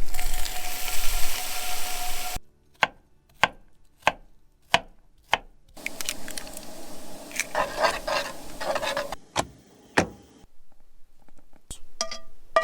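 Knife chopping on a cutting board: a run of five sharp, evenly spaced knocks a little over half a second apart, between stretches of scraping and rustling noise, with a few more scattered knocks near the end.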